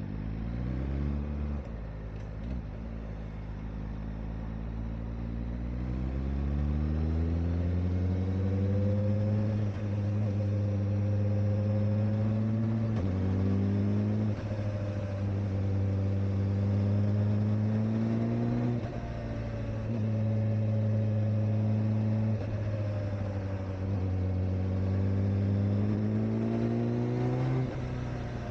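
Kawasaki Ninja ZX-4RR's inline-four engine pulling through the gears on the road, its pitch rising steadily and dropping at each shift, about five shifts in all, with revs kept moderate since the bike is still being broken in.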